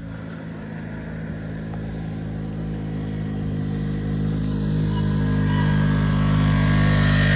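Dirt bike engine running at a steady pitch, starting abruptly and growing steadily louder.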